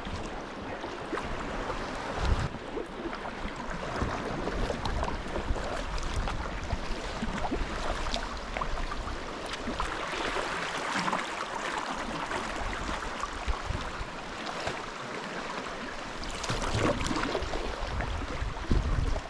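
Sea water sloshing and splashing around a sea kayak as it is paddled, with scattered small splashes and a few low thumps, one about two seconds in and more near the end.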